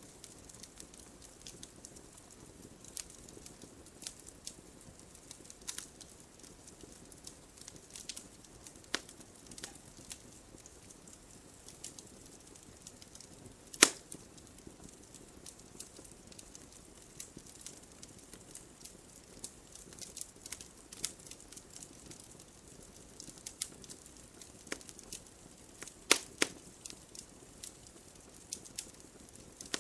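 Wood fire burning in a fireplace: a soft steady hiss under irregular crackles and snaps of burning logs, with a sharp loud pop about halfway through and a quick pair of pops near the end.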